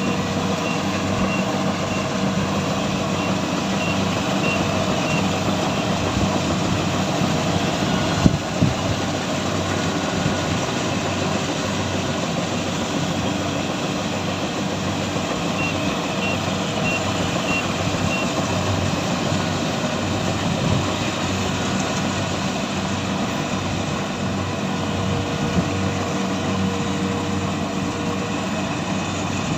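A heavy farm machine's engine runs steadily. A high reversing alarm beeps about twice a second for a few seconds at the start, and again about halfway through. There is a single knock about eight seconds in.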